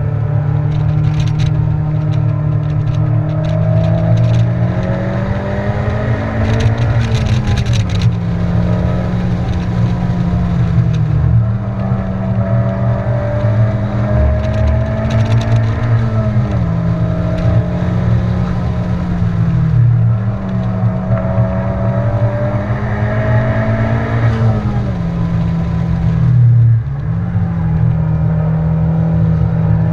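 Turbocharged four-cylinder engine of a Honda Civic Type R at sustained high revs, heard from inside the cabin on a lapping run. Its pitch climbs steadily under throttle and dips sharply and briefly about five times as the driver lifts or changes gear. Road and wind noise run underneath.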